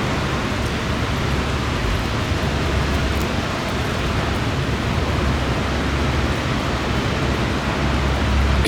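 Heavy thunderstorm rain falling steadily as an even hiss, with wind rumbling low underneath.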